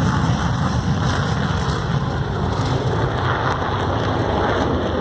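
Panavia Tornado's two RB199 turbofan engines at full afterburner for takeoff: a loud, steady jet noise.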